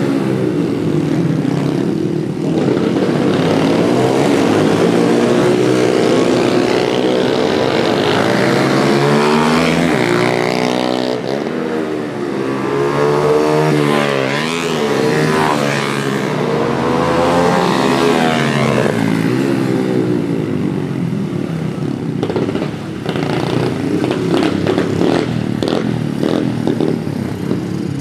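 Several pit bikes racing past, their small engines revving hard. The engine notes rise and fall and overlap as the bikes accelerate, shift and pass. There are some short sharp clatters in the last few seconds.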